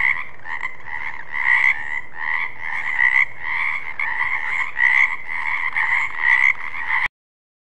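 Frog croaking over and over, a steady run of pulsing calls, that cuts off abruptly about seven seconds in.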